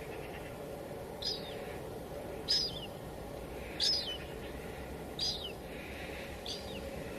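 Steady hiss of light drizzle, with a bird calling five times at a regular pace, about one short, falling call every 1.3 seconds.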